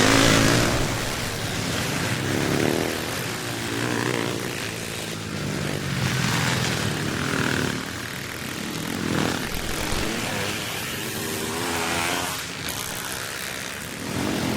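Classic motocross bikes racing past, their engines revving up and falling away again several times as riders accelerate and shut off.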